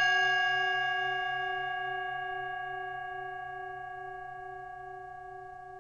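Singing bowl ringing after a single strike, its steady tones slowly fading with a gentle wavering pulse.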